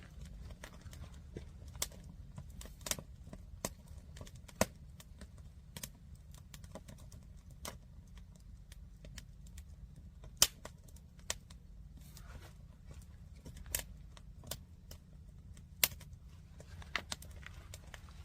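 Wood fire in a stacked firewood tower crackling, with irregular sharp pops, a few much louder than the rest, over a steady low rumble.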